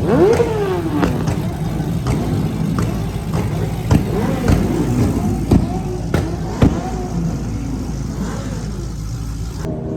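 Car engines revving, their pitch rising and falling in overlapping sweeps, with several sharp cracks in the middle, the loudest about four, five and a half and six and a half seconds in.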